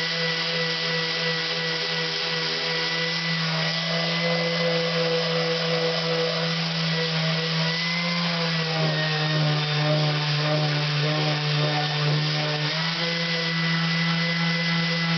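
Electric power tool fitted with coarse P60 sanding paper, its motor running steadily while sanding paint off the face of a Honda CX500 cylinder head; the motor's pitch dips slightly for about four seconds past the middle as it comes under heavier load, then recovers.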